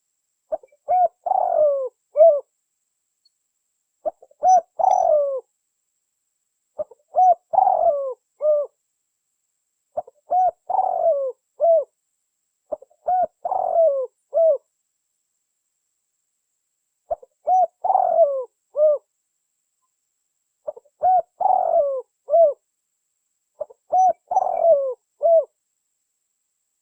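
Spotted dove (tekukur) cooing, played as a hunting lure call. The same short multi-note coo phrase repeats eight times, about every three seconds, with a longer pause near the middle.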